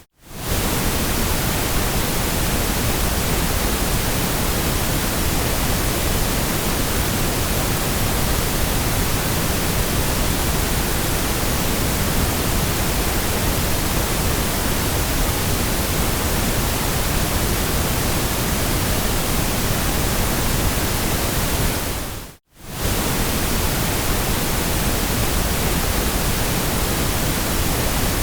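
Steady, even hiss of white noise spread across the whole range from deep to high, dipping briefly to silence twice, at the very start and about 22 seconds in.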